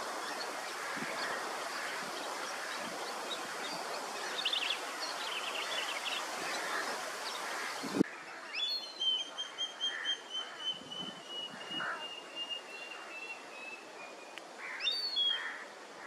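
Outdoor ambience of steady noise with scattered bird chirps, cutting abruptly about halfway through to quieter surroundings. There a bird gives one long call of rapid repeated notes, slowly falling in pitch, for about five seconds, then a shorter call near the end.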